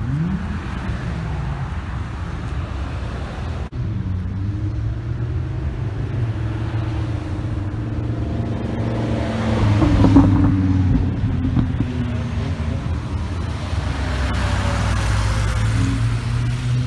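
Car engines running as cars drive slowly past, with the sound growing louder as one car goes by about ten seconds in.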